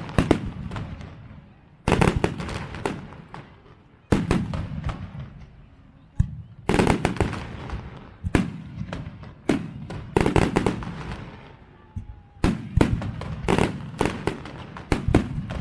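Aerial fireworks shells bursting: loud sharp bangs every second or two, each followed by a fading rumble and crackle. Near the end comes a quick run of several bangs close together.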